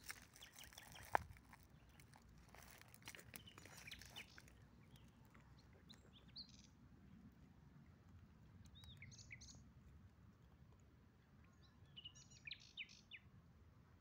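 Faint birds chirping: short, high calls in a few scattered groups, busiest near the end. In the first four seconds there is soft crackling and rustling, with one sharp click about a second in, over a faint low background rumble.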